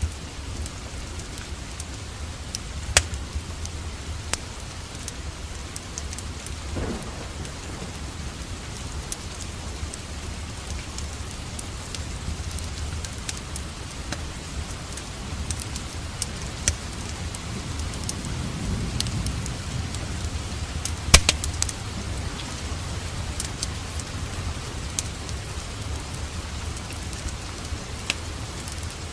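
Steady rain with the sharp, scattered crackles of a wood fire in a fireplace; two crackles stand out, about three seconds in and past two-thirds of the way through.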